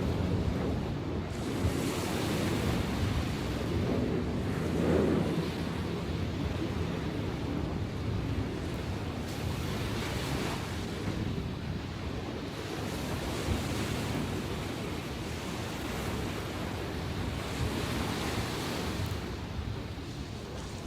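Sea waves breaking and washing in, swelling every few seconds, on rough water after a typhoon, with wind rumbling on the microphone.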